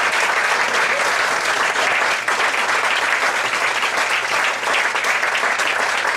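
Audience applauding steadily, dense clapping that starts to thin out into separate claps near the end.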